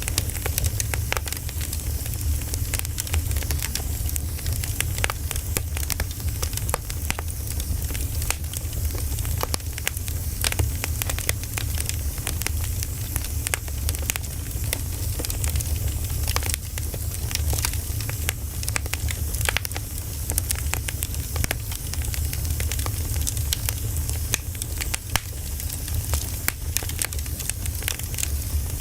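Wood fire crackling steadily, with many small irregular pops over a low rumble.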